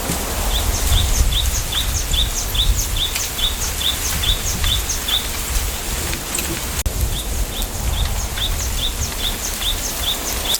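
A songbird repeating a short, high, downward-slurred chirp about two or three times a second, in two runs with a brief pause between them. A steady low rumble, typical of wind in a bamboo grove, runs underneath.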